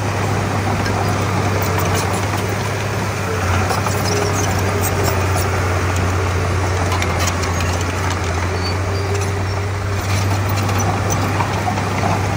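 Komatsu D31P crawler bulldozer's diesel engine running steadily at a constant low hum, with scattered light clicks over it.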